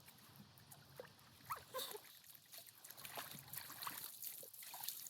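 A kitten making a few faint, short, high-pitched mews, with light taps and rustling around it.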